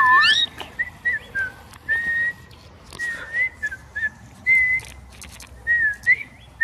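A person whistling short, clear notes again and again, each held at nearly the same pitch with a little slur at the end, calling to a northern cardinal in imitation of its calls.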